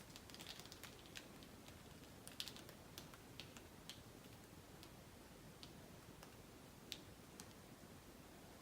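Near silence with faint, irregular light clicks and ticks scattered throughout, a few a second at most.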